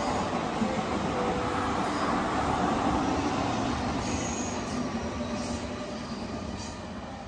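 Odakyu electric commuter train running past, a steady rumble of wheels on rail that fades away as the train draws off. A faint high wheel squeal comes in about four seconds in.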